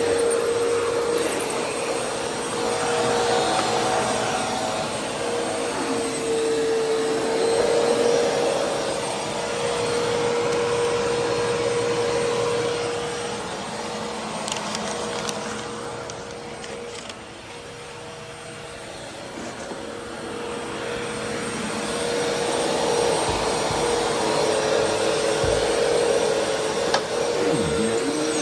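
Vacuum cleaner running steadily, its motor whine held at one pitch. Partway through, the sound drops away for a few seconds, then comes back up to full level.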